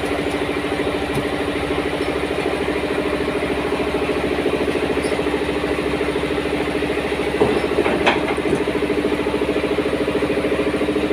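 A motor running steadily with a fast, even pulsing, and a couple of short knocks about seven and eight seconds in.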